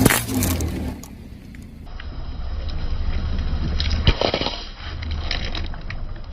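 Car tyres rolling over objects and crushing them, with a low engine hum under sharp cracks and crunches. A loud crack comes right at the start and another about four seconds in.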